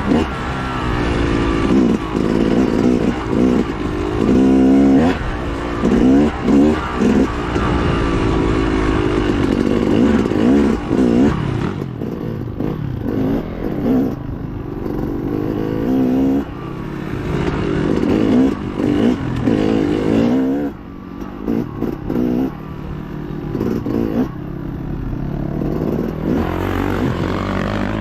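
Dirt bike engine ridden hard off-road, revving up and dropping back again and again through throttle changes and shifts, with rattling and scraping from the bike over rough ground.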